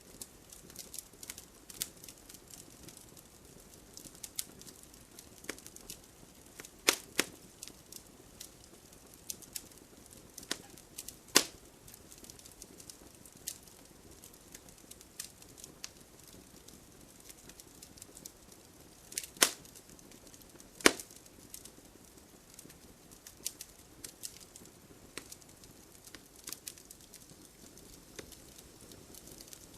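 Wood fire crackling, with a soft low rush of flame under a steady scatter of small snaps. A few much louder sharp pops stand out, four of them spread through.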